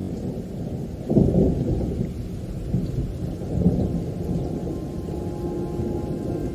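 Thunderstorm: low rolling thunder over rain, swelling loudest about a second in and again around three and a half seconds.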